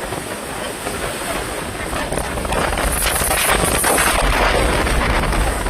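Strong storm wind buffeting the microphone as a steady rush of noise with a low rumble, growing louder about halfway through.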